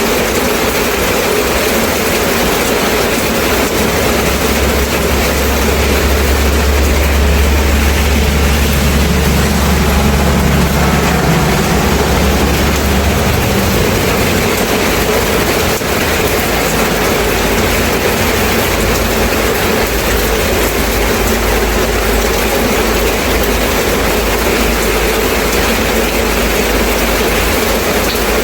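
Steady rain falling. A low rumble rises under it about four seconds in and fades out after about thirteen seconds, with a fainter low rumble again in the last few seconds.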